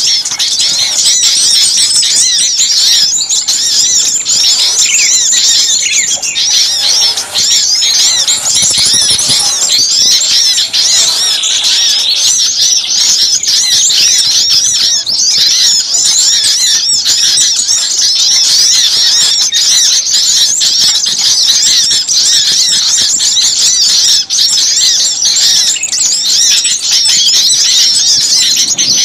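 A dense, noisy chorus of many small songbirds chirping and trilling rapidly and without pause, a lure recording meant to draw small birds in.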